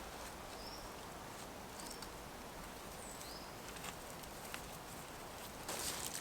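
Quiet outdoor ambience with a few short, high chirps that slide in pitch and scattered light ticks, then a brief rustle near the end.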